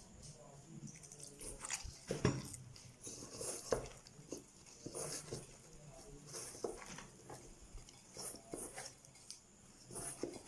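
Hands kneading a stiff flour dough in a bowl: irregular soft, sticky squelches and pats.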